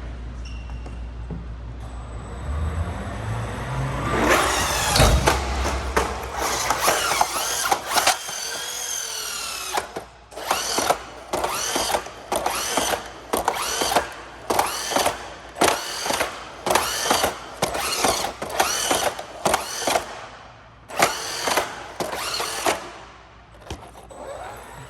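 Brushless electric motor of a Traxxas Hoss 4x4 VXL RC truck whining under throttle, its pitch rising with each rev. After a longer stretch of revving, it comes in short, quick throttle bursts about one a second, which stop near the end.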